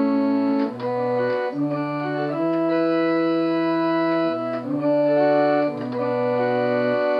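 Slow organ-style keyboard music: sustained chords held without fading, moving to a new chord every second or two.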